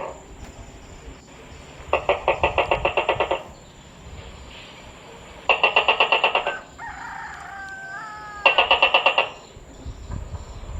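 Gecko calling in three rapid chattering trains of chirps, each about a second and a half long and a few seconds apart. A short gliding call sounds between the second and third trains.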